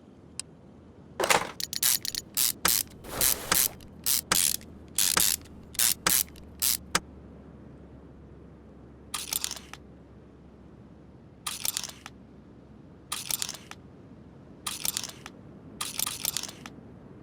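Short bursts of mechanical clicking and rattling, as from hand-tool work on an engine: a quick run of them in the first seven seconds, then single bursts about every second and a half.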